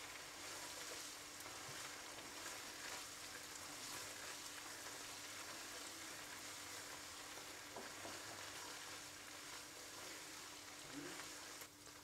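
Chicken strips sizzling steadily as they fry in butter and garlic in a nonstick wok, stirred with a silicone spatula.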